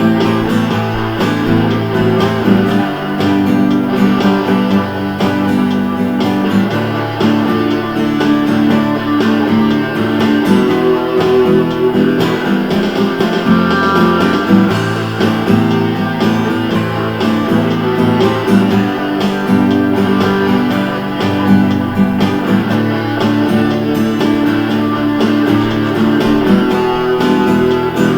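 Instrumental guitar break in a rock song, with guitars strummed and picked over a repeating low bass line and no vocals.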